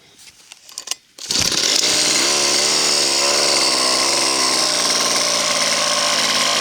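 Small two-stroke gasoline model-helicopter engine turning a 14x6 propeller on a test stand. It starts about a second in after a few clicks, then runs loud and fast, its pitch wavering for a couple of seconds before holding steady.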